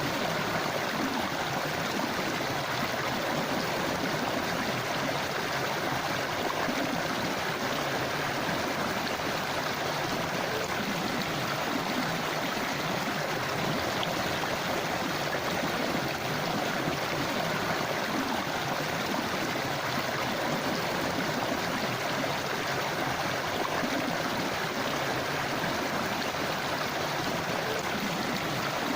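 River water flowing steadily over rocks, a constant rush with a bubbling texture.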